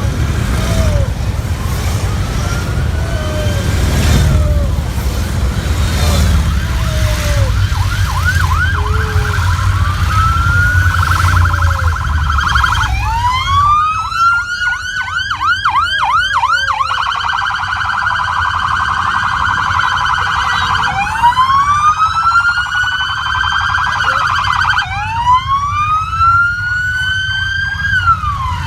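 Electronic siren going: over a heavy engine rumble in the first half, then loud, cycling between slow rising wails and rapid yelping warbles from about halfway in, the pattern of a police escort siren.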